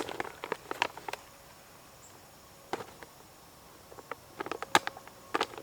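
An MRE's plastic pouch crackling and crinkling in the hands as it is opened and its contents handled: sharp crackles bunched near the start and again near the end, with a quieter stretch between.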